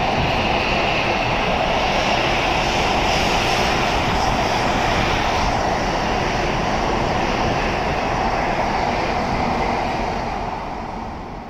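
Tokaido Shinkansen N700A train running past along the platform: a loud, steady rush of motor and wheel noise that fades near the end as the train clears.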